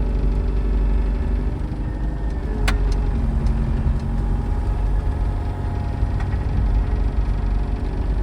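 Skid loader engine running steadily, with one sharp clank about two and a half seconds in.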